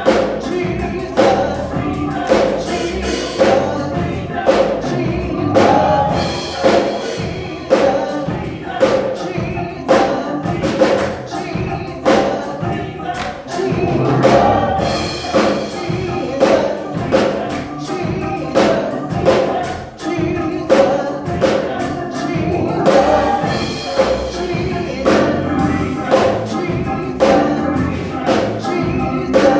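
Gospel choir singing with band accompaniment over a steady beat.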